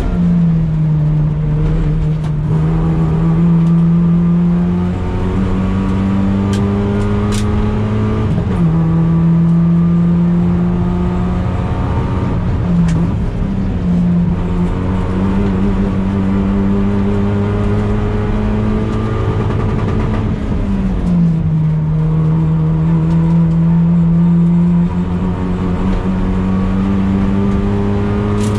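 Toyota Yaris T Sport's four-cylinder petrol engine under hard acceleration on a track lap, heard inside the cabin. The engine note climbs gradually in pitch over long stretches, with a few sudden drops in pitch, over steady road and wind noise.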